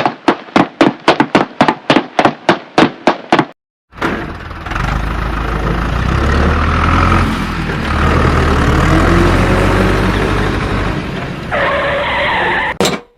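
Rapid even clicking, about four strokes a second, for the first three and a half seconds, then a vehicle engine running with a low rumble for about seven seconds. A sharp click comes near the end.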